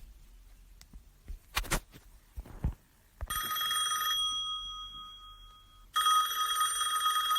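Telephone ringing: two rings, the first about three seconds in and the second about six seconds in, each a rapid trilling ring.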